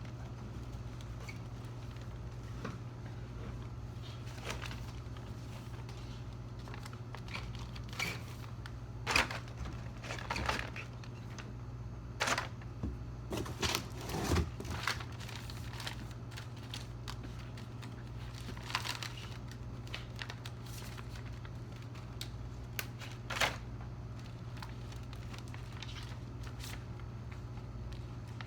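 A steady low hum with scattered sharp clicks and light knocks, bunched in the middle of the stretch, with a couple more later.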